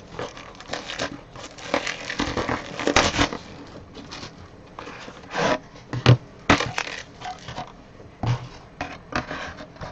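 Card boxes and packaging being handled, with irregular crinkles, scrapes and sharp knocks; a few louder knocks come about halfway through.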